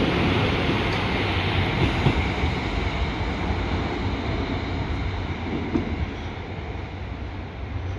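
Class 150 Sprinter diesel multiple unit passing and moving away: engine and wheel-on-rail rumble that fades steadily as the train recedes.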